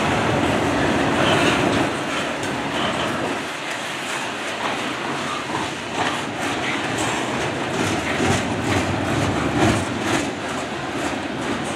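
Double-stack intermodal container well cars of a freight train rolling past over a short railway bridge: a steady rumble and rattle of wheels and couplings, with repeated clicks of wheels over rail joints.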